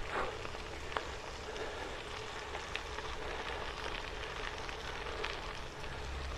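Bicycle tyres rolling over the gravel surface of a rail trail: a steady crackling hiss with a few small ticks from loose stones, over a low rumble.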